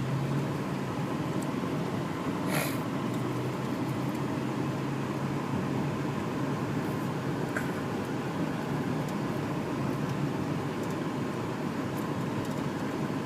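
Steady engine and road noise inside a moving manual-transmission car, with a low hum that fades out about halfway through and a brief noise about two and a half seconds in.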